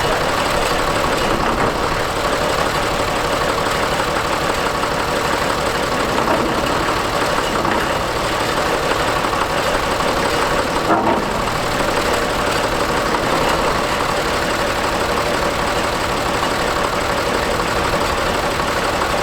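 Oliver tractor's engine running steadily at a low, even speed.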